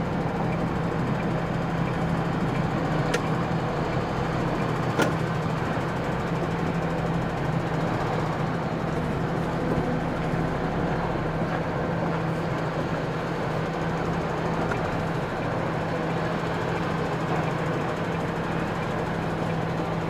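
MAN TGX articulated lorry's diesel engine running steadily at low speed while manoeuvring, with a sharp click about 3 seconds in and another about 5 seconds in.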